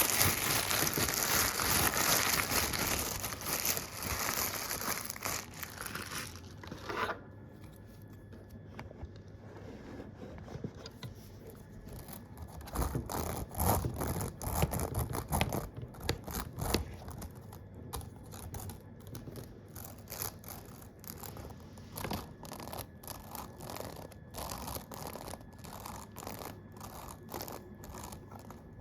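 Loud crinkling, rustling noise for about the first seven seconds, then a long run of quick, irregular clicks and taps, denser and louder for a few seconds around the middle.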